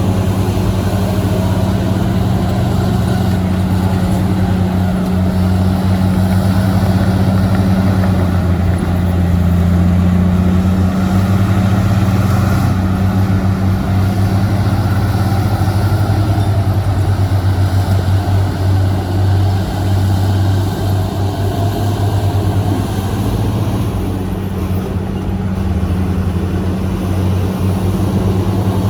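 Heavy diesel engine of earthmoving equipment running steadily with a deep drone, its pitch shifting a little as the load changes.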